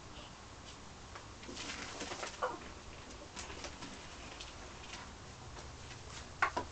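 Soft, low bird calls, most of them about a second and a half to two and a half seconds in, followed by scattered short chirps and two sharp clicks near the end.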